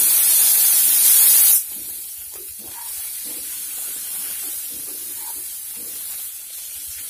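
Cauliflower florets hitting hot oil in a non-stick pan: a loud burst of sizzling for about a second and a half, then a steady, quieter sizzle as a wooden spatula stirs them.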